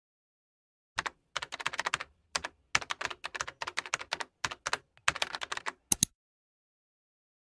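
Keyboard typing sound effect: runs of quick key clicks in several bursts, starting about a second in and ending with two sharper clicks about six seconds in.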